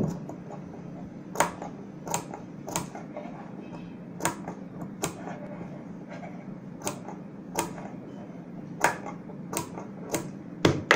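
Tailor's scissors snipping cloth, about a dozen separate sharp snips: clipping the seam allowance at the point and along the curve, up to near the stitching, so the stitched piece turns out cleanly.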